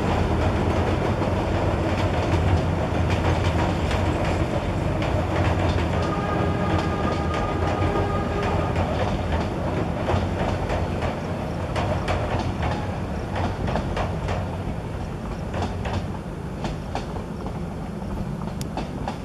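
Metre-gauge passenger train hauled by a YDM4 diesel locomotive crossing a girder bridge: a steady low rumble with the clickety-clack of wheels over rail joints, slowly fading as the train moves away.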